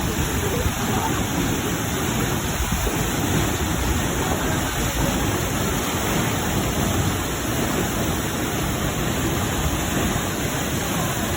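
Waterfall in strong flow: heavy water pouring and splashing in a loud, steady rush.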